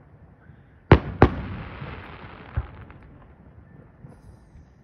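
Aerial fireworks shells bursting: two loud bangs in quick succession about a second in, trailing off in a long echo, then a fainter bang a little later.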